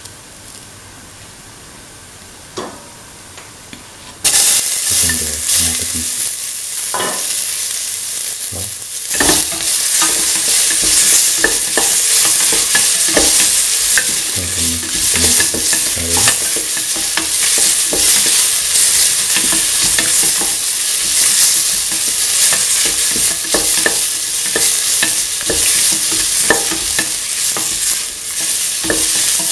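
Onion, fennel seeds and dried red chillies frying in oil in a stainless steel pan, a utensil scraping and clicking on the pan as it stirs. About four seconds in the sizzle suddenly turns much louder, as chopped tomato goes into the hot oil, and it stays loud under the stirring.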